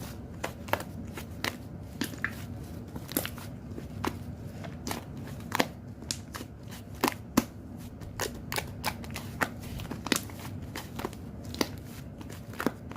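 Toy slime being squeezed and poked by hand, giving an irregular stream of sharp pops and clicks, several a second.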